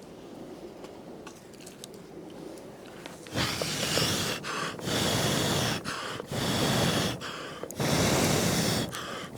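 A person blowing out hard in long, rushing breaths, four in a row about a second each with short pauses between, starting about three seconds in.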